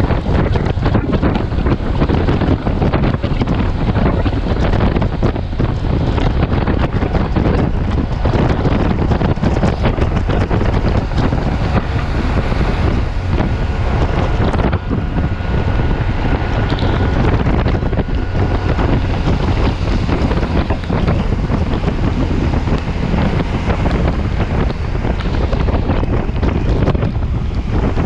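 Loud, steady wind buffeting the microphone of a Yamaha T-Max 530 maxi-scooter riding at speed in heavy rain, drowning out the engine and the rain.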